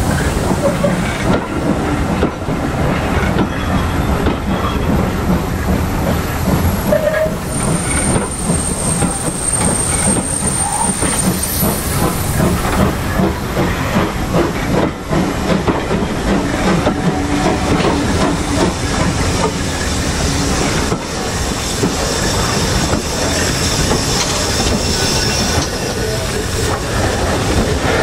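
Steam-hauled train of coaches rolling slowly past, wheels clicking over the rail joints and steam hissing from the carriage steam-heating beneath the coaches. A thin high wheel squeal sounds for a few seconds about a third of the way in.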